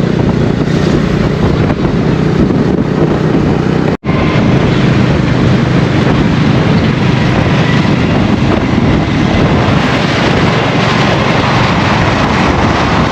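Wind rushing over the microphone of a motorcycle on the move, with a steady low engine drone underneath; the sound drops out for an instant about four seconds in.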